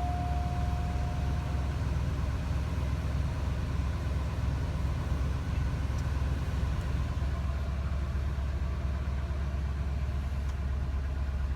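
2000 Cadillac DeVille's Northstar V8 idling steadily just after a cold start. A steady high tone sounds over it and stops about two seconds in.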